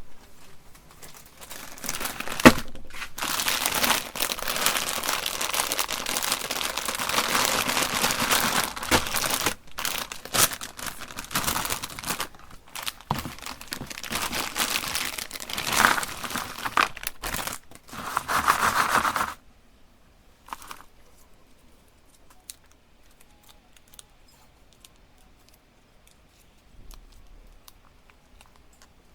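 Crinkly plastic candy wrappers being handled and torn open, in dense crackling for about seventeen seconds, then stopping, after which only a few faint ticks are heard.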